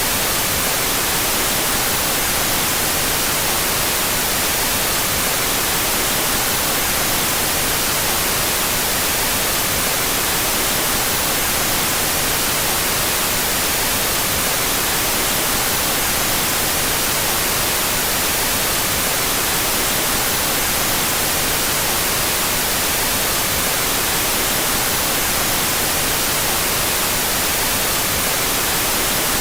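Steady electronic white noise, an even hiss with the most energy in the high frequencies, unchanging throughout; it is white noise with the stereo channels put out of phase.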